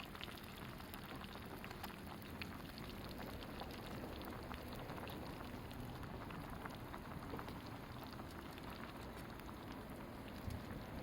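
Wood fire crackling, a steady hiss dotted with many small irregular pops and snaps.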